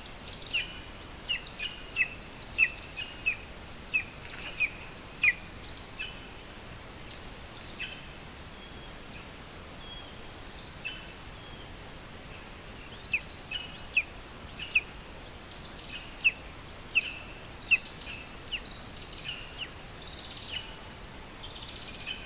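A bird calling over a steady background hiss. It gives sharp, downward-sliding chirps about one to two a second, mixed with longer thin high whistled notes. The chirps drop out for a few seconds around the middle, leaving the whistled notes, and then resume.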